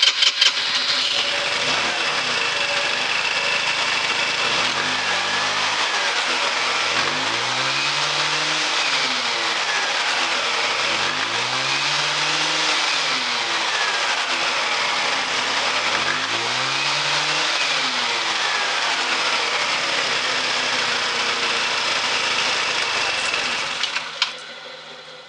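GY6 150cc scooter engine running on its original CDI box, revved up and back down about three times without cutting out. Near the end it drops back and gets quieter.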